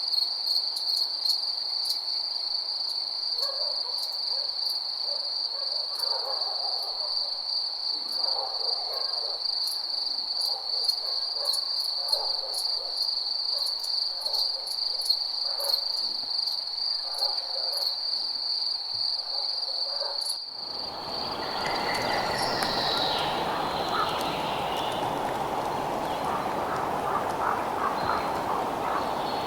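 Crickets chirping in a steady, unbroken shrill trill, with faint lower calls now and then. About twenty seconds in this cuts off abruptly and is replaced by a steady rushing noise with a few bird calls.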